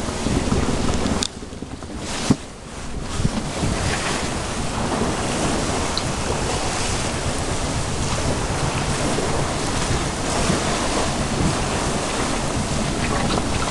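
Wind buffeting the microphone over water rushing past a sailing boat's hull. The noise drops away for about a second, then comes back just after two seconds in with a single sharp knock.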